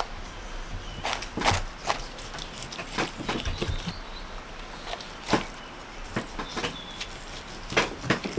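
Irregular light clicks and knocks, a dozen or so scattered over several seconds, with a few faint short high chirps between them.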